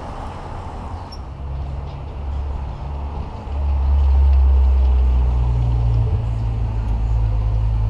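A low engine drone, which gets much louder about three and a half seconds in and steps up in pitch around five seconds.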